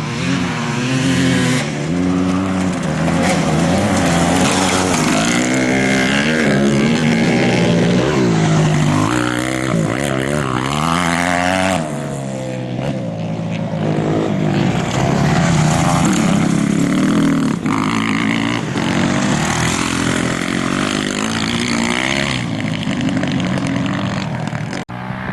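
Racing motorcycle engines revving, their pitch repeatedly rising and falling as the bikes accelerate and shift, with a sudden cut near the end.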